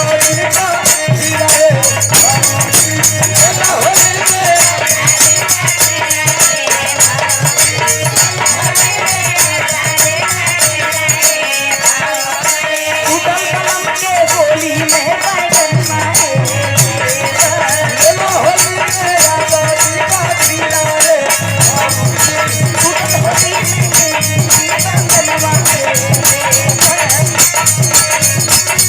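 Indian folk music: a wavering melody line over a steady, dense beat of jingling hand percussion, with low drum beats that drop out briefly twice.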